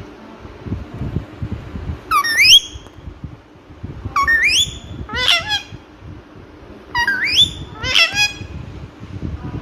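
Indian ringneck parrot calling in three bouts of shrill calls that rise in pitch, a couple of seconds apart.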